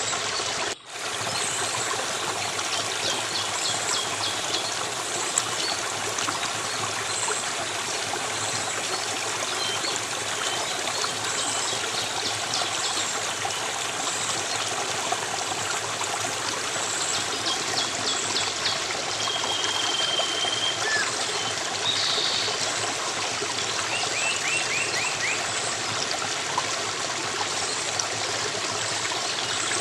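Steady rush of a flowing stream, with a momentary drop-out about a second in and faint, brief high chirps here and there over the water.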